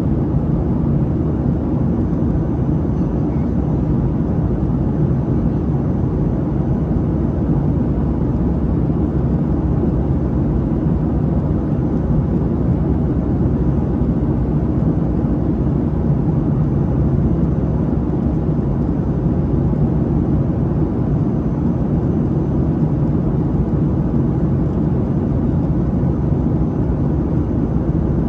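Steady roar of a Boeing 737-700 cabin in flight, heard from a window seat: the CFM56-7B engines and the airflow make an even, low rumble with no change in level.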